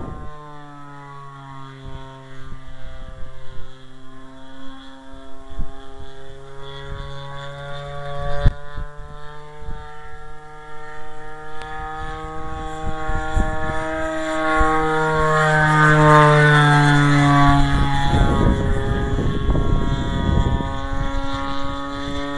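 Great Planes Giant Super Sportster RC airplane in flight, powered by a converted Homelite 30cc two-stroke string-trimmer engine, its drone sliding up and down in pitch as the plane passes, loudest about two-thirds of the way through. Wind gusts on the microphone near the end.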